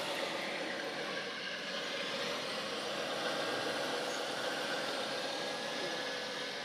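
Radio-controlled model trucks running with a steady mechanical hum, without a clear start, stop or change.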